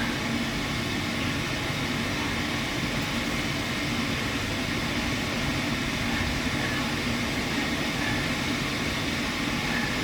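Steady, even rumbling noise with no distinct events, like a vehicle running.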